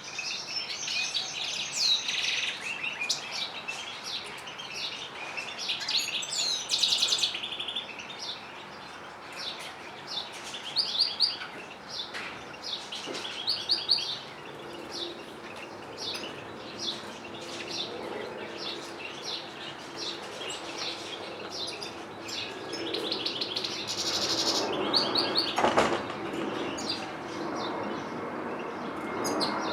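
Canaries and goldfinches singing together: rapid twittering trills and chirps from several birds overlapping. A faint steady low hum comes in about halfway through, and there is one short thump about three-quarters of the way in.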